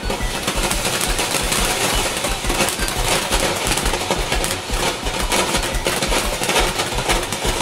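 TNT Loco Lobo consumer firework going off: a dense, continuous run of rapid crackling and popping.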